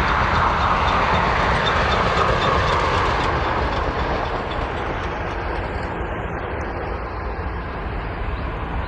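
Airbus A350-900's Rolls-Royce Trent XWB jet engines at takeoff thrust: a steady, loud rushing rumble that starts suddenly, with its pitch sliding lower over the first few seconds and the level easing off slowly.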